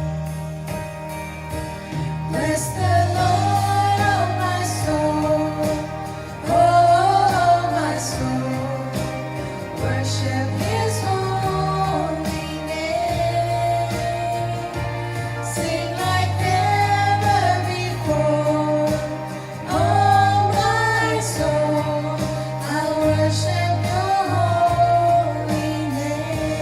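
Contemporary worship song: a sung melody over band accompaniment with a bass line stepping between notes, the voice coming in about two and a half seconds in.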